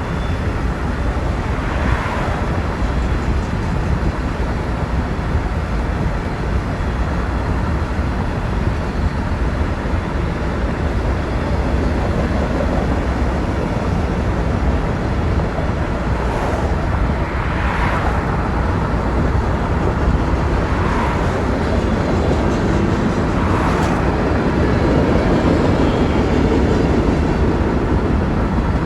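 Steady road and tyre rumble of a car driving on a wet road, with a few brief whooshes about two seconds in and again several times in the second half.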